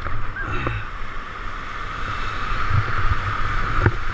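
Rushing river water around a kayak running a rapid: a steady hiss of white water, with low bumps and knocks scattered through it.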